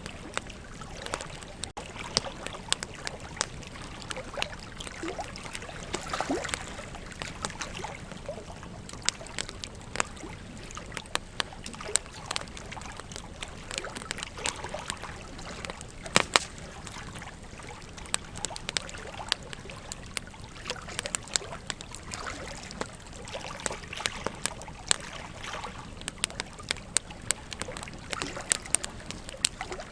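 Wood campfire crackling, with frequent sharp irregular pops, over the steady rush of a river flowing.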